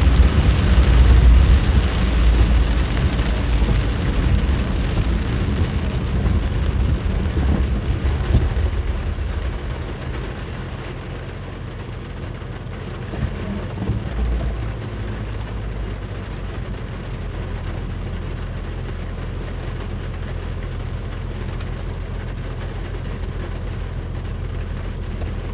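Thunder rumbling loudly at first and dying away over about ten seconds, over the steady low drone of a car driving in heavy rain with rain hiss.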